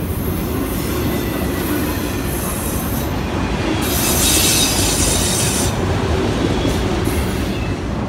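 Empty autorack freight cars rolling slowly past, a steady rumble of steel wheels on rail. About four seconds in, a high screech of wheels against the rail rises for roughly two seconds and then drops away.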